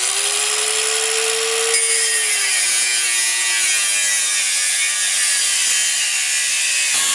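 Angle grinder running and cutting metal. Its motor whine steps down in pitch about two seconds in as the disc takes load, over a steady grinding hiss.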